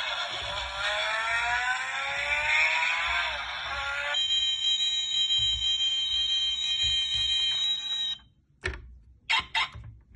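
Electronic engine sound from a toy Lamborghini Sián revving up, its high-pitched note climbing steadily for about four seconds. It then jumps to a steady high whine that cuts off abruptly about eight seconds in. A few sharp clicks follow near the end.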